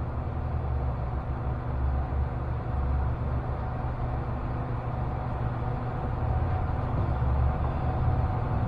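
Machine tool running steadily with a low hum and a faint whine.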